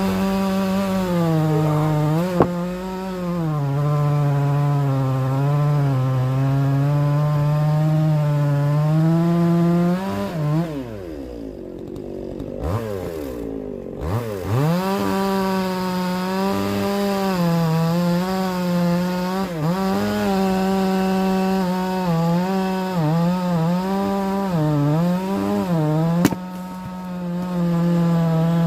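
Two-stroke chainsaw running at high revs through firewood, its pitch sagging and recovering as the chain bites. About ten seconds in the throttle is released and the engine falls almost to idle before revving up again to keep cutting; a couple of sharp knocks are heard.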